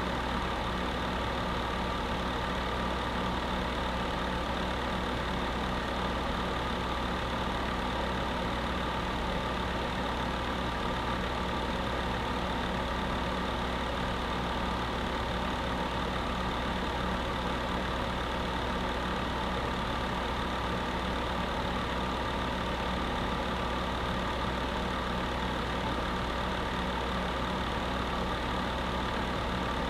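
Electric space heater running steadily: a continuous fan rush with a steady hum, unchanging throughout.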